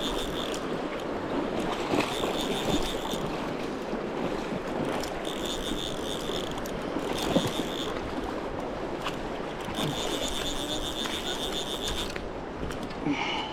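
Fishing reel whirring in five short spells as a hooked salmon is played, over the steady rush of a river.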